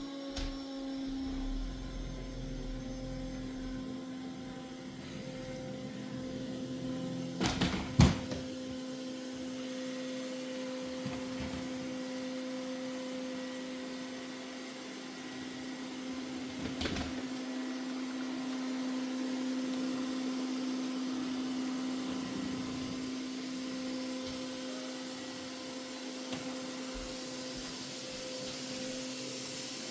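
Mova Z60 robot vacuum-mop running, its motor making a steady hum that settles slightly lower in pitch at the start. Sharp knocks come about eight seconds in, the loudest moment, and again about seventeen seconds in.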